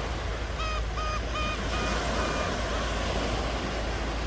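Ocean waves washing on the shore, a steady rushing surf. From about half a second in, a quick run of about six short, high calls sounds over it, the last ones longer and fading.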